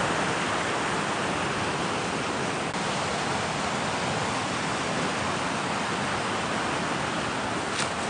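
Rain-swollen river rushing steadily, with a short faint tick near the end.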